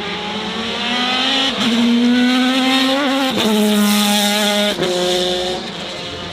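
Racing car engine under hard acceleration, its pitch climbing and then dropping sharply at three quick gear changes about one and a half, three and a half and five seconds in.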